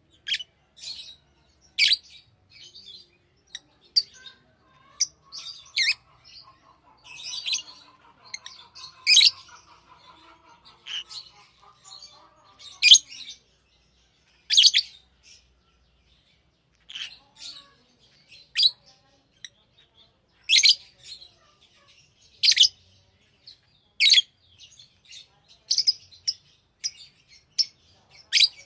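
Pet lovebirds giving short, sharp, high-pitched chirps, one every second or two at irregular intervals. Under the chirps, a faint lower warbling chatter runs for several seconds near the start.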